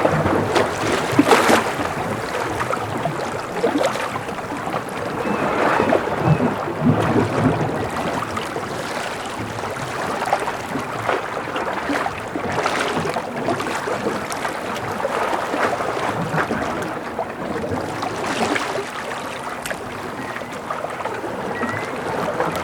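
Gentle sea waves washing against a breakwater, a steady rushing that swells and eases every few seconds.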